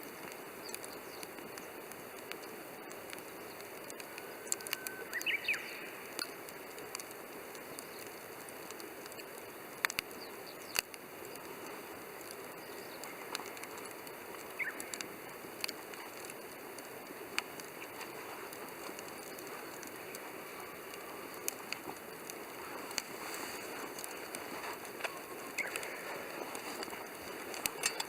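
Wood campfire burning in a Coleman Fire Disk: a steady low hiss with scattered sharp crackles and pops throughout, and a few short high chirps.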